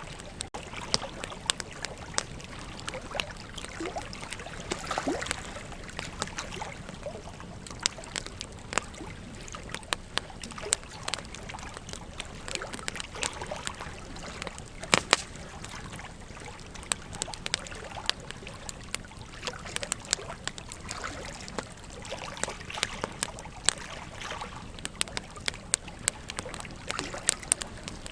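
Burning wood crackling, with frequent sharp pops, a few of them loud, over the steady rush of flowing river water.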